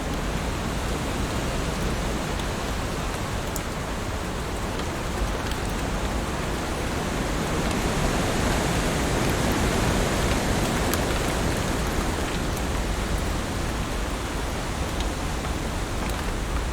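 Heavy rain falling in a steady, dense hiss, with a few sharper drop ticks standing out; it swells slightly in the middle.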